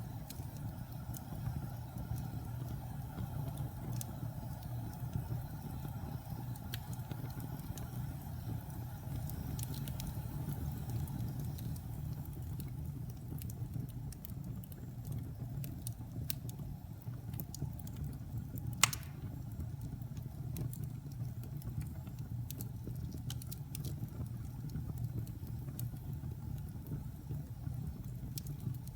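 Wood fire burning in a fireplace: a steady low rumble with scattered small crackles and one sharp, loud pop about two-thirds of the way through.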